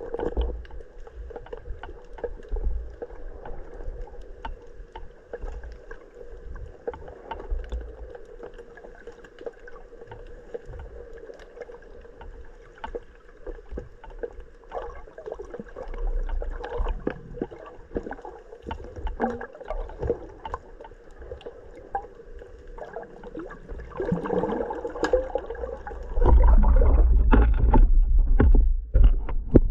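Muffled water sounds with gurgling and scattered clicks over a steady hum, as picked up by a diving camera. About three-quarters of the way through, loud low buffeting takes over.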